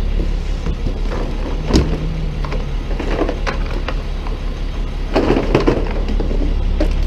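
Idling truck engine as a steady low hum, with scattered clatter and rustle of plastic junk and car parts being tossed into a trash bin, including a sharp knock about two seconds in.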